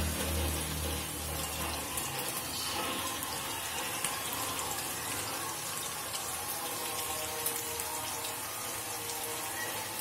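Hot oil sizzling steadily around skinless longganisa sausages frying in a non-stick pan, with scattered small crackles and pops.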